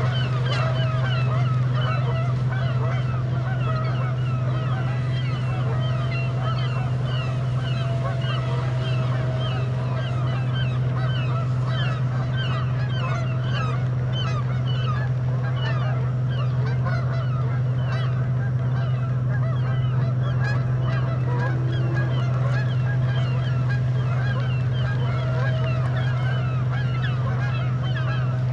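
A flock of geese honking continuously, many calls overlapping, as the birds are harried by a remote-controlled coyote decoy boat. A steady low drone runs underneath.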